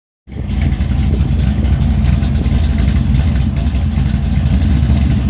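Classic Chevrolet Nova's engine idling loudly, a steady deep exhaust rumble from the rear of the car.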